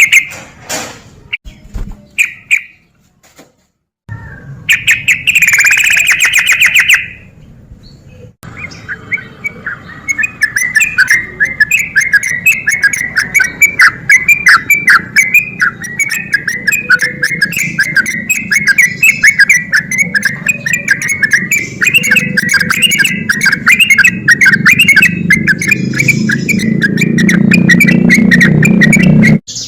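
Sooty-headed bulbul (trucuk) singing. A few short phrases with pauses come first. From about nine seconds in, the song becomes a long, fast, unbroken run of notes (the 'ropel' style of song) that stops abruptly near the end.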